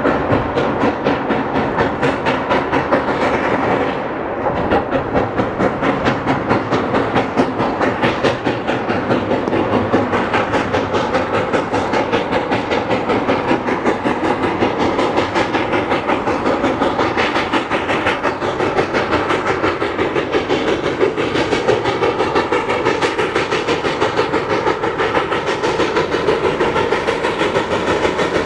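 Reading & Northern's steam excursion train, led by 4-8-4 T-1 locomotive #2102, running, with a steady fast rhythmic beat. The level dips briefly about four seconds in.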